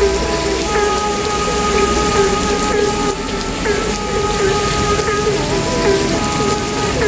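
Dense chorus of frogs: many overlapping short calls repeating over and over, with several steady higher trilling tones held above them, over a constant hiss.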